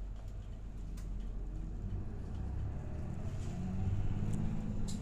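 Route bus heard from inside the cabin: a steady low engine and road rumble, the engine note growing louder and rising a little in pitch over the second half as the bus pulls away.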